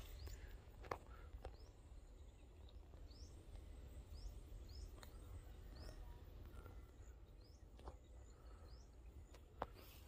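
Faint outdoor ambience: a bird repeats a short, high, rising chirp about once a second over a low steady rumble, with a few soft clicks.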